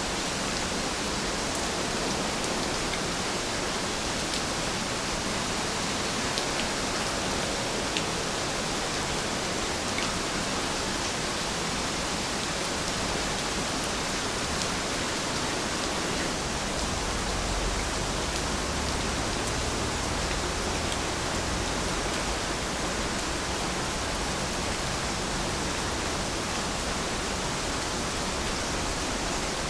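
Heavy rain falling steadily, an even hiss of water with occasional sharper drop ticks. A faint low rumble swells briefly a little past halfway.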